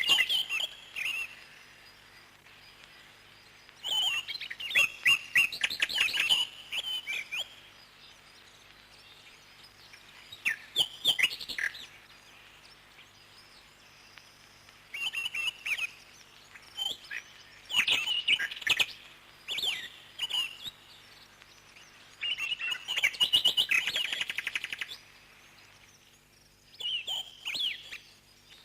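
Parrots chirping in bursts of quick, high chirps, each burst lasting one to three seconds, with short quiet gaps between them.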